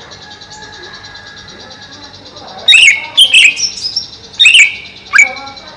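Greater green leafbird singing: a few loud, sharp, quickly sweeping whistled notes, given in four short bursts starting a little before halfway, over a steady high-pitched background hum.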